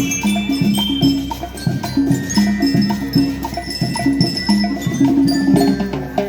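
School rhythm band playing: metal bell lyres ringing a melody over a steady, repeating drum beat.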